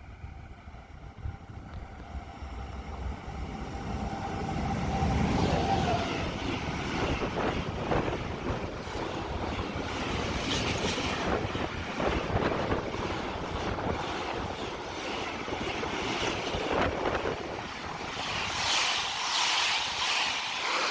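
A train approaching and passing close by, swelling over the first few seconds into a sustained rumble with repeated clatter from the wheels on the rails.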